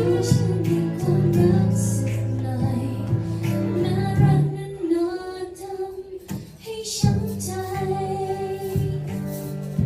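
A band playing a Thai pop song: a melody line over held bass notes and guitar. The music thins out and drops in level about halfway through, then the band comes back in.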